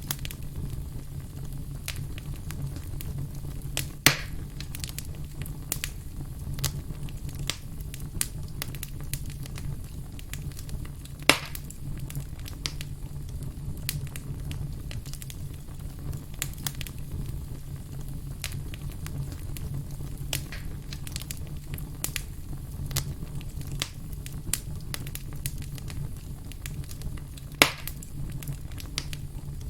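Wood campfire crackling, with frequent small pops and three louder sharp pops: about four seconds in, about eleven seconds in, and near the end. A low steady rumble of the flames runs underneath.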